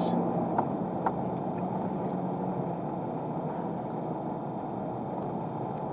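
Steady road and engine noise of a car being driven, heard from inside the cabin, with two faint clicks near the start.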